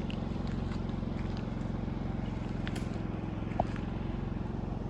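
Steady low engine drone, with a few faint clicks and a brief chirp about three and a half seconds in.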